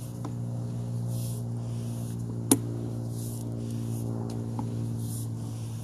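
Steady low mechanical hum, with a soft hiss that swells about every two seconds and a single sharp click about two and a half seconds in.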